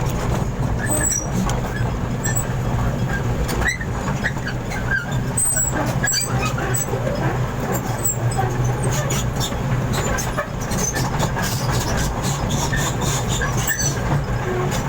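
Truck engine running steadily during loading, with scattered knocks and clatter over it.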